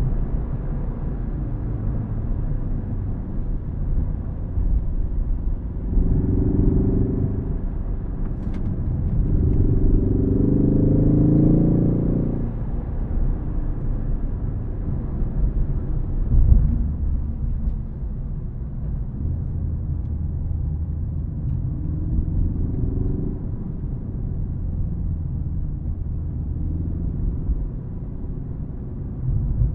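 Ford Focus ST engine accelerating twice, its note climbing in pitch a few seconds in and longer around ten seconds in, then lifting off to a low rumble with tyre and road noise, with brief light throttle pick-ups near the end.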